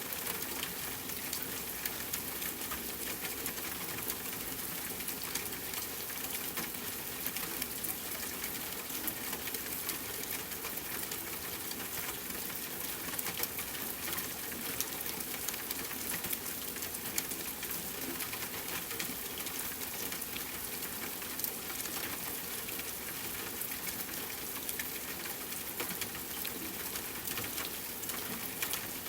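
Steady rainfall, an even hiss scattered with many quick, sharp patter ticks of drops striking a surface.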